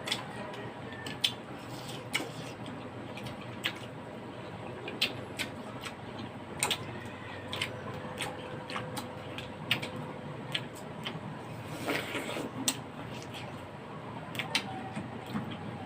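Close-up eating sounds during a bulalo meal: irregular sharp clicks and smacks of utensils and mouth, with a short denser, noisier stretch about twelve seconds in.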